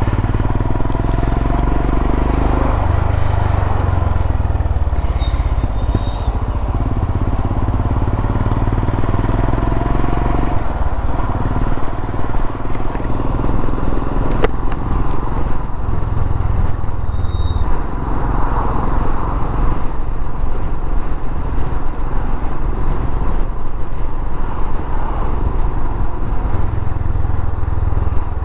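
Royal Enfield Himalayan's single-cylinder engine running as the motorcycle is ridden along, its note swelling and easing every few seconds.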